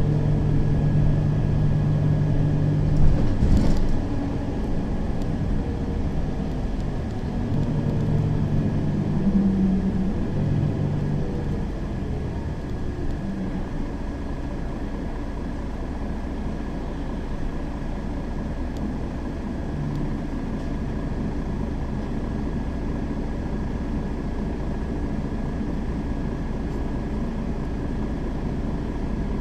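Mercedes-Benz Citaro city bus heard from inside while driving, its engine and drivetrain running steadily, with a sharp knock about three and a half seconds in. Around ten to twelve seconds in, the engine note falls away and it goes on as a quieter, steady running sound.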